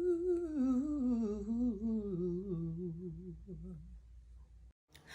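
A singer humming a slow, wavering melodic line that winds down in pitch and fades away, over a faint steady electrical hum; the sound cuts off near the end.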